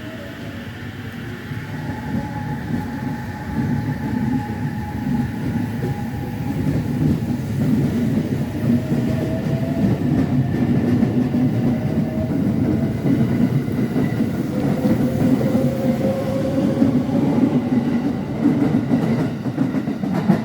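Train running on rails, growing louder over the first few seconds and then holding, with a thin whine that slides slowly in pitch over a heavy rumble.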